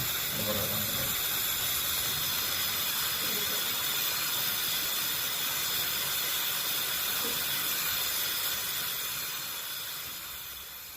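Gas brazing torch hissing steadily on a refrigerator's copper strainer joint, fading out near the end.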